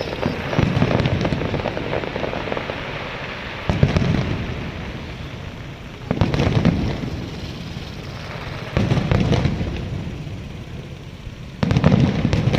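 Aerial firework shells bursting about every three seconds, each a sudden deep boom that fades over a second or two, over a steady hiss.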